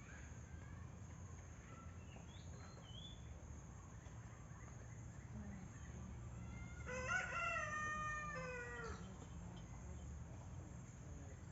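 A rooster crowing once, about seven seconds in: a single call of about two seconds that drops in pitch at the end. Faint small-bird chirps in the first few seconds over a steady low background hum.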